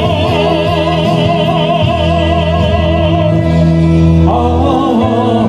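A baritone in an operatic style holds a long sung note with wide vibrato over steady accompaniment. The note ends about three seconds in, and a new vibrato melody line comes in shortly after over the same accompaniment.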